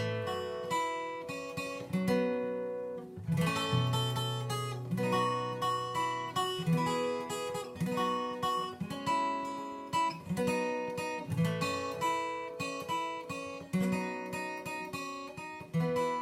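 Acoustic guitar played as an instrumental break, a steady rhythm of strummed chords and picked notes.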